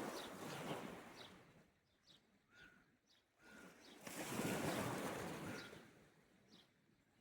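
Small sea waves washing onto the shore in two slow swells, the second rising about four seconds in, with short bird chirps repeating over them.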